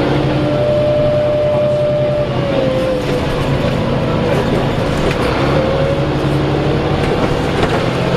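DAF SB220 bus's diesel engine running with an uneven low rumble and a whine that holds steady, then wavers in pitch. The engine has a bad idle with a banging noise.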